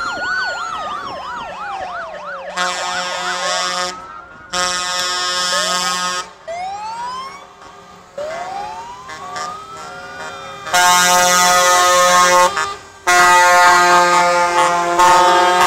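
Sirens wailing and yelping in rising and falling sweeps, traded off with long blasts of multi-note truck air horns. The horn blasts grow loudest and longest in the second half.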